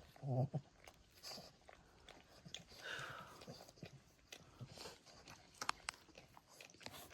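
Mother Boston terrier licking and nibbling at her newborn puppies: soft wet licking and chewing sounds with scattered small clicks, and a brief high squeak about three seconds in.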